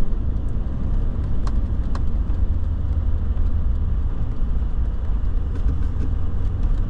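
Truck driving down the road, heard from inside the cab: a steady low rumble of engine and tyres, with a few faint ticks.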